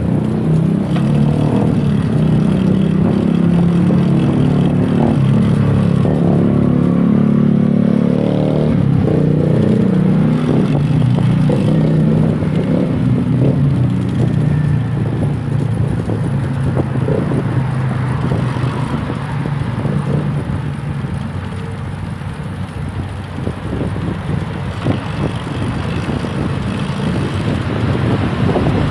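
Wind rushing over the microphone and road noise from a moving bicycle, with a motor vehicle's engine hum that fades after about ten seconds.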